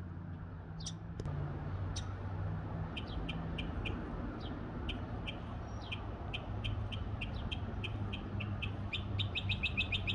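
A bird singing overhead: a few scattered high notes, then from about three seconds in a long run of short, evenly repeated chips that speeds up near the end to about five a second, over a steady low hum.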